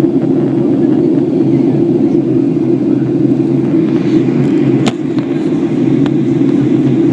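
Steady low rumble of a Boeing 737-800 airliner's engines and airflow, heard from inside the cabin in flight. Two sharp clicks come about five and six seconds in, and the noise drops slightly after the first.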